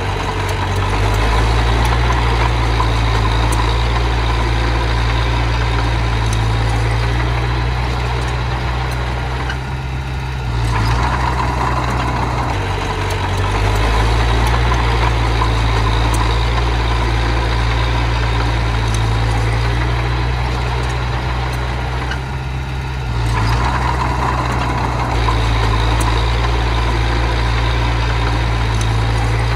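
Heavy diesel engine of earthmoving machinery running steadily, easing off briefly twice, about a third of the way in and again past two-thirds.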